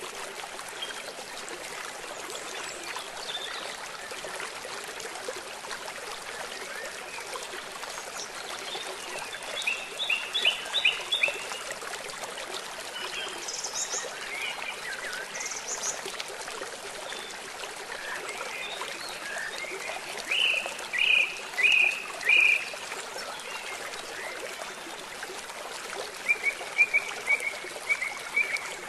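Steady rush of running water with small birds chirping over it: short runs of quick chirps about ten seconds in, again around twenty seconds and near the end, with a couple of brief high notes in between.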